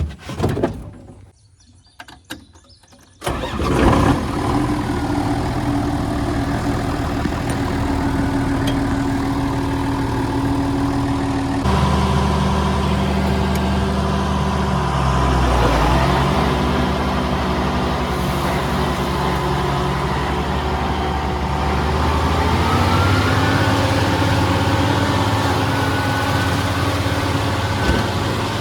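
Farm tractor engine starting after a few clicks, then running steadily. Its note changes about 12 seconds in, and the engine speed rises in pitch about three quarters of the way through.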